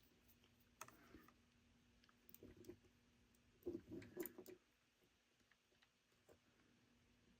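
Faint clicks and taps of small plastic and metal parts being handled, as the opened toy locomotive's chassis and wiring are fiddled with; a cluster of them comes about four seconds in.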